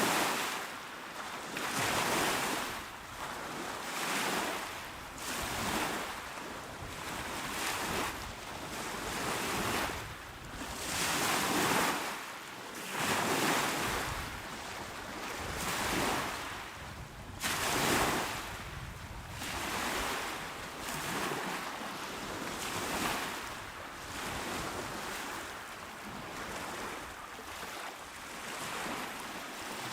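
Small waves breaking and washing onto a shore, a steady rush of surf that swells and eases every second or two, with somewhat bigger surges now and then.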